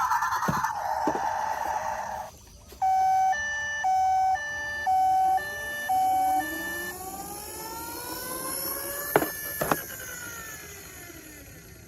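Electronic toy emergency-vehicle siren sound effects: a harsh buzzing burst, then a two-tone hi-lo siren alternating about once a second, then a sweeping wail that rises and falls, with two sharp clicks near the end.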